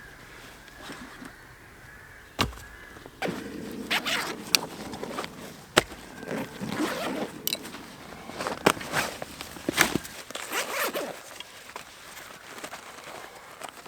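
Dry leaves and twigs rustling and crackling underfoot and in the hands, with several sharp snaps and cracks of small sticks along the way.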